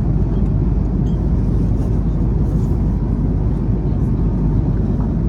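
Steady low rumble of an airliner in flight heard inside the cabin: jet engine and airflow noise.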